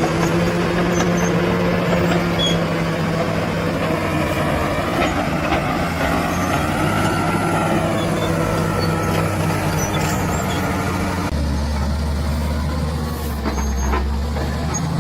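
Bulldozer's diesel engine running steadily under work, with its pitch wavering in the middle. About eleven seconds in the sound changes abruptly to a deeper, duller rumble.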